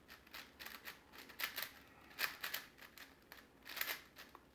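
Plastic twisty puzzle being turned fast by hand: faint irregular clicks and rasps of its layers snapping round, several quick turns in a row.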